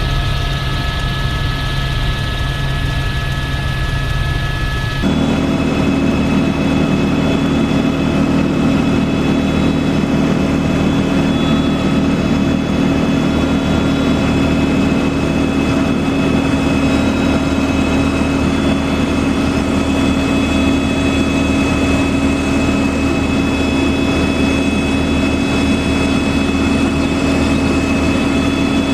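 Tour helicopter in flight, heard from inside the cabin: a steady, loud drone of turbine and rotor with several whining tones over it. About five seconds in, the tones and drone change abruptly to a slightly louder, lower-pitched mix.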